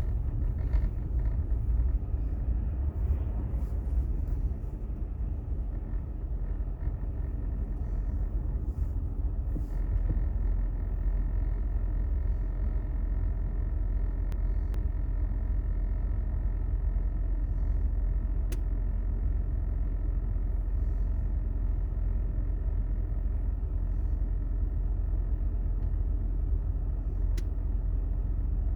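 Steady low rumble of a car driving, heard from inside the cabin, with a faint steady hum and a few soft clicks.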